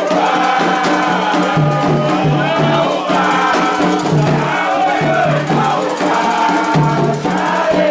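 Voices singing a Candomblé chant for an orixá, a group singing together over percussion.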